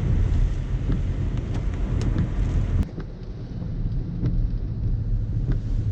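Car driving, with a heavy low road-and-wind rumble and scattered small ticks. It drops suddenly to a quieter rumble about three seconds in.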